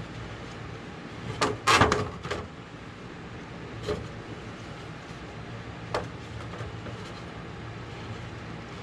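A steady low hum with a brief clatter of knocks about one and a half to two and a half seconds in, then single knocks about four and six seconds in.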